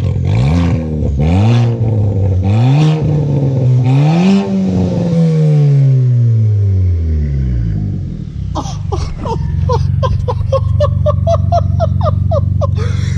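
2020 Kia Forte GT's 1.6-litre turbocharged four-cylinder running with its muffler and resonator removed, the exhaust open: it is revved four times in quick succession, then the revs fall back to a steady idle. Near the end, a rapid series of short pitched chirps sounds over the idle.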